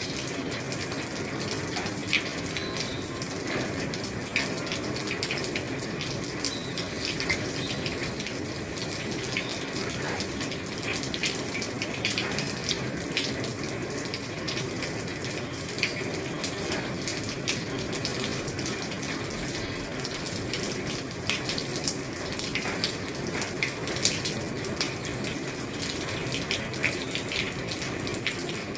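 Heavy rain drumming steadily on an old roof, a dense hiss with many sharp drop impacts ticking irregularly throughout.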